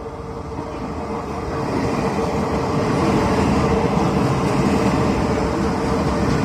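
Taiwan Railway train approaching and running past, its rumble growing louder over the first few seconds and then holding steady, with a steady tone running through it.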